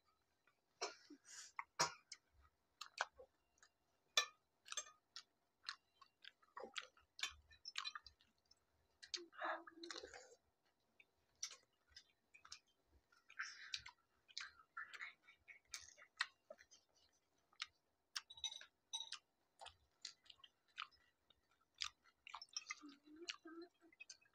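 People chewing mouthfuls of pani puri (golgappa), the crisp fried puri shells giving many irregular, sharp crunches and clicks, with a few longer wet chewing sounds in between.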